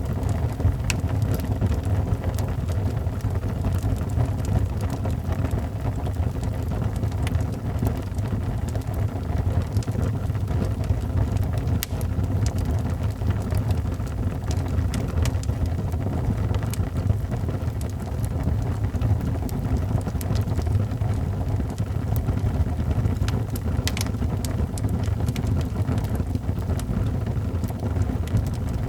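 Wood fire burning in a fireplace: a steady low roar of the flames with scattered sharp crackles and pops.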